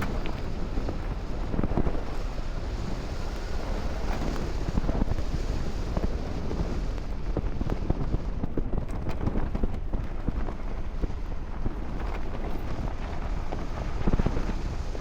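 Four-wheel-drive vehicle driving through fresh snow with the window open: wind buffets the microphone over a steady low engine and tyre rumble, with scattered small knocks and clicks.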